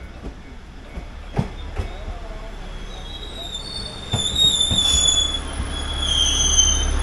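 Koumi Line diesel railcar pulling in at the platform: a low rumble builds with a few knocks, and high metallic squealing from the wheels sets in about halfway through and grows louder.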